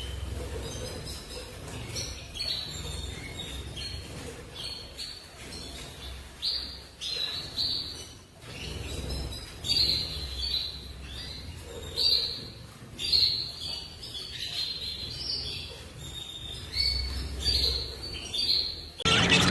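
Small birds chirping: many short, high chirps repeated in irregular spells, some louder than others, over a low rumble.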